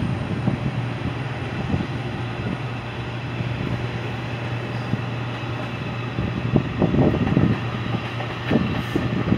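A train running past: a steady low engine drone under a constant rumble, with irregular knocks and rattles starting about two-thirds of the way through.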